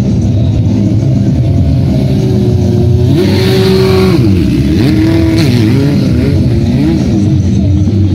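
Stunt motorcycle's engine revving hard. It climbs and holds at high revs for about a second midway, then drops and is blipped up and down several times.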